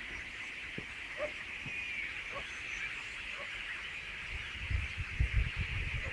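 Dense, steady chatter of a large flock of common starlings, a high-pitched din of many birds calling at once, with scattered single chirps. Low rumbling thumps build over the last second or two.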